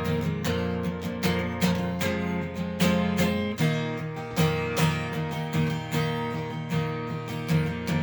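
Acoustic guitar strummed in a steady rhythm, chords ringing between strokes: an instrumental passage of the song.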